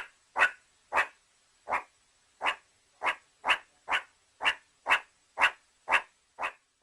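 An animal giving short, sharp calls over and over, about two a second, with a slightly longer pause after the first second.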